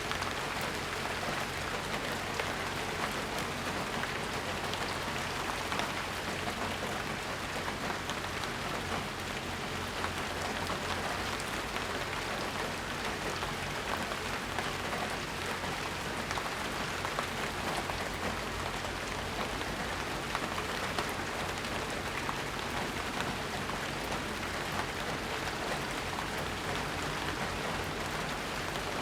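Steady rainfall, with a dense patter of drops hitting surfaces.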